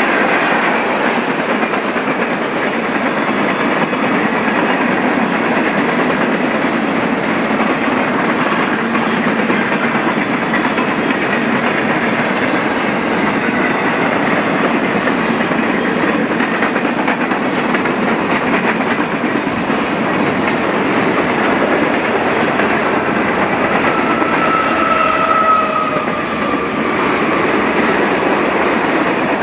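Freight cars of a mixed freight train rolling past: a steady, loud rumble of steel wheels on the rails, with a short squeal near the end.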